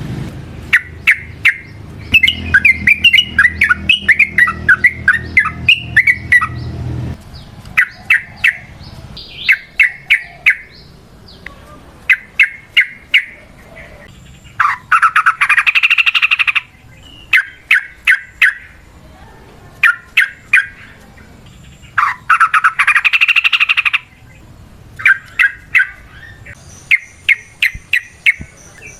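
Yellow-vented bulbul (trucukan) singing: short bubbling phrases repeated about once a second, twice breaking into a rapid chattering run lasting about two seconds. A low hum lies under the first seven seconds and stops suddenly.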